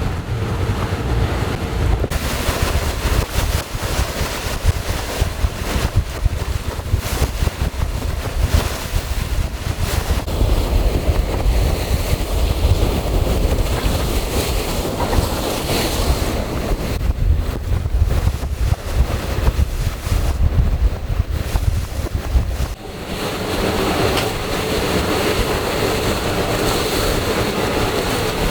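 Wind buffeting the microphone over the rush of water along the hull of an offshore racing yacht under way. The sound dips briefly and changes character about 23 seconds in.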